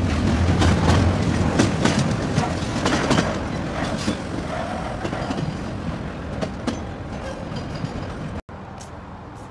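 Train cars rolling past on the rails, with wheels clicking over rail joints in an irregular run of clacks, slowly fading. Near the end it cuts off abruptly, leaving a much quieter steady background.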